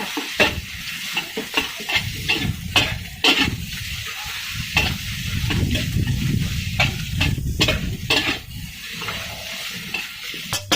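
Fried rice with Chinese kale and onion being stir-fried in a wok: a metal spatula scraping and knocking against the pan in quick irregular strokes over steady sizzling, with a low rumble underneath.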